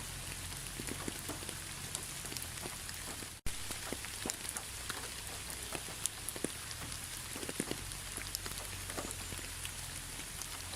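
Steady rain, with individual drops ticking sharply on a surface over an even hiss of rainfall. The sound cuts out for an instant about three and a half seconds in.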